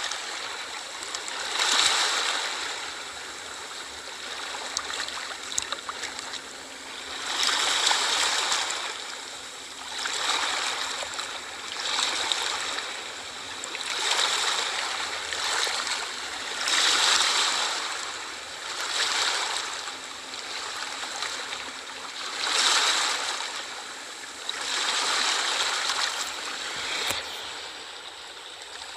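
Sea waves washing in and drawing back, a surge of hissing water every two to three seconds.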